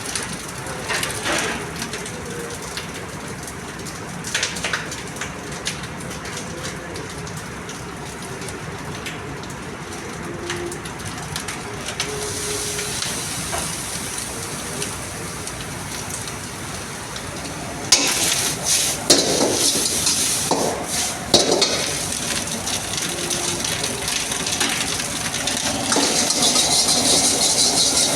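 Food sizzling in a hot wok while a metal ladle or spatula knocks and scrapes against the pan. The clattering is loudest for a few seconds about two-thirds of the way through, and the sizzle grows louder near the end.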